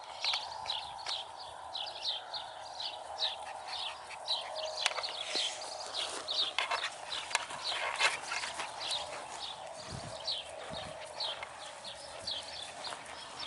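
Birds chirping steadily: short, high, downward-sliding chirps repeating two or three times a second over a steady hum, with scattered light clicks and rustles and a couple of dull thumps about ten seconds in.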